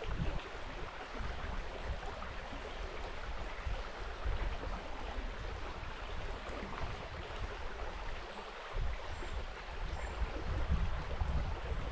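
River water running, a steady rushing, with wind buffeting the microphone in uneven low gusts.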